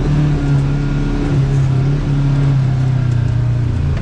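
Kawasaki KRX side-by-side's parallel-twin engine running at low, steady revs while the machine crawls along a trail; its pitch drops near the end.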